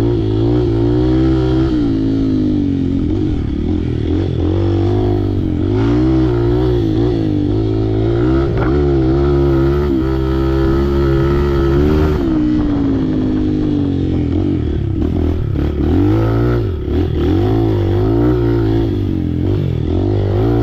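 Off-road vehicle's engine running continuously on a trail, its pitch rising and falling again and again as the throttle is worked, with a brief dip about two-thirds of the way through.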